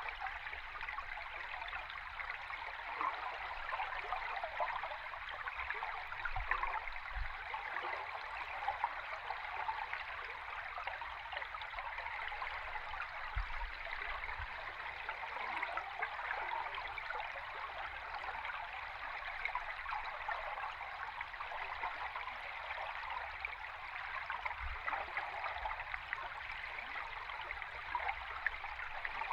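A river stream recorded underwater: a steady rush of flowing water, with a few faint low thuds.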